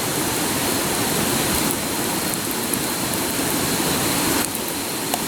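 Campfire burning briskly: a steady rushing hiss with a few sharp crackles near the end.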